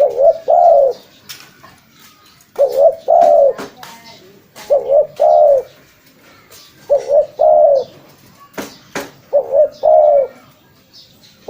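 Spotted dove (tekukur) cooing: a repeated phrase of a short note followed by a longer, falling coo, given five times at a steady pace of about one every two seconds. Faint sharp clicks come between the calls.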